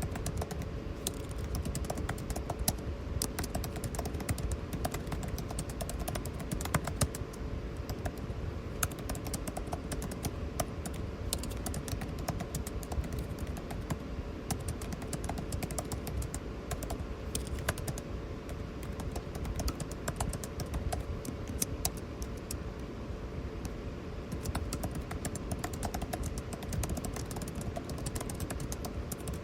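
Typing on a computer keyboard: a steady, irregular run of key clicks, over the constant hum of air conditioning.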